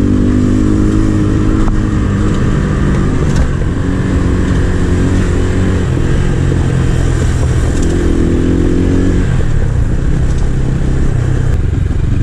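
A 250 cc motorcycle engine running under way, its note rising and falling a few times as the rider works the throttle to get past slow traffic, over steady road and wind noise.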